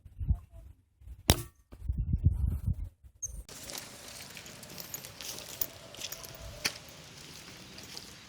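A single sharp air-rifle shot about a second in, followed by a second or so of rumbling handling noise, then steady outdoor background with small scattered clicks.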